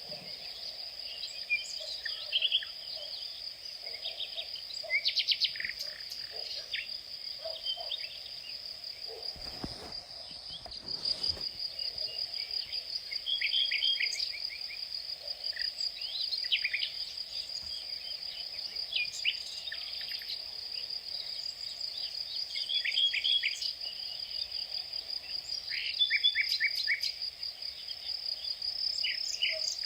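Steady high-pitched insect trill, with birds calling in short rapid series of chirps every few seconds. A brief low rumble comes about ten seconds in.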